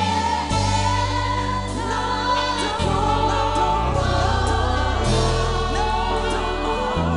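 Gospel worship song: voices singing together over held chords with a deep bass that changes every two seconds or so.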